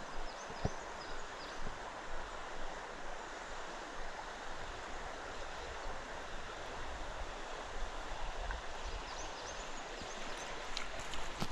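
Creek water running, a steady even rush, with a couple of faint clicks near the start.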